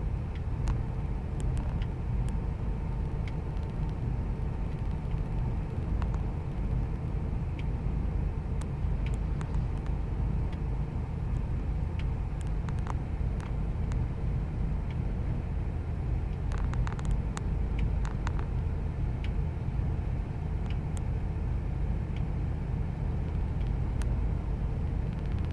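2000 Ford Expedition's 5.4-litre V8 idling rough: a steady low rumble with scattered light ticks, and a brief cluster of clicks about two-thirds of the way through.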